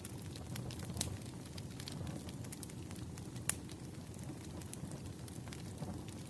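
Wood fire burning, a steady low crackle with scattered sharp pops, the loudest about a second in and past the three-second mark.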